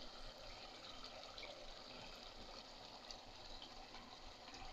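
Faint, steady sizzling and bubbling of tripe curry frying in oil in an open pan.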